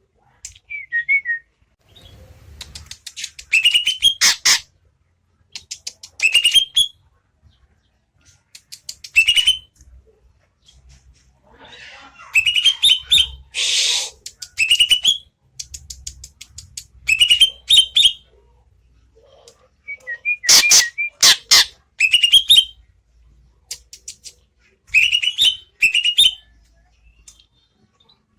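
Greater green leafbird (cucak ijo) singing: short bursts of rising whistled notes mixed with sharp clicks, repeated every two to three seconds.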